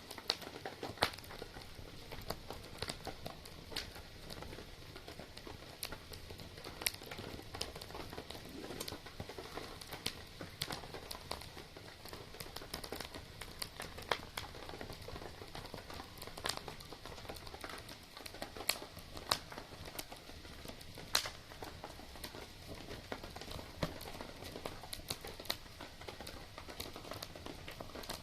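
Wood campfire crackling, with sharp, irregular pops and snaps over a steady hiss.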